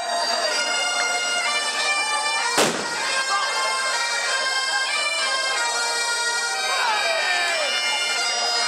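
Bagpipes playing a tune over their steady drone, with one sharp bang about two and a half seconds in.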